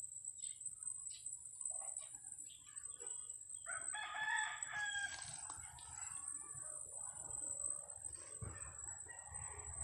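Chickens clucking on and off, with a rooster crowing once about four seconds in; a steady high-pitched whine runs underneath.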